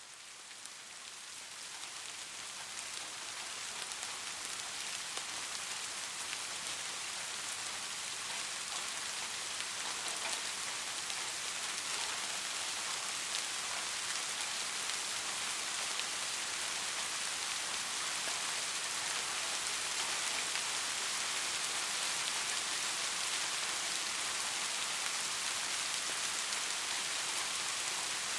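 Steady rain with fine drop patter, fading up over the first few seconds and then holding level.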